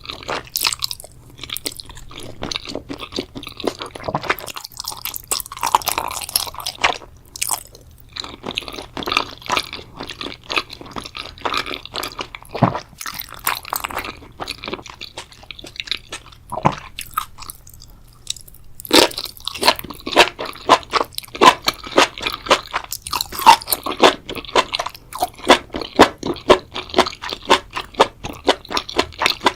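Close-miked mukbang eating of a spicy seafood boil: wet, crunchy chewing and biting in quick, repeated chews. The chewing grows louder and more regular after a short lull about two-thirds of the way through.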